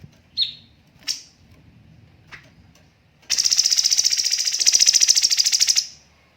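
Cucak cungkok bird singing: three short sharp chirps, then about halfway in a loud, high rapid trill of a dozen or more notes a second, the fast 'tembakan' burst, lasting about two and a half seconds.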